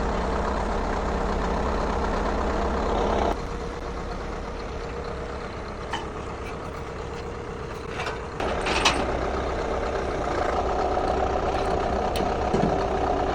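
Heavy engine running steadily, dropping in level about three seconds in and picking up again after about eight seconds, with a few short metallic knocks.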